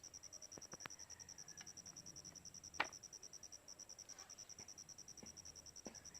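Faint insect trilling in a fast, even pulse of about ten beats a second, with a few soft clicks and one sharper knock about three seconds in.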